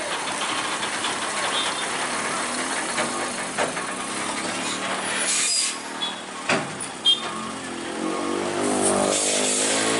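Heavy truck running, with a short burst of hissing air about halfway through and two sharp knocks soon after. Near the end the engine revs up, its pitch rising.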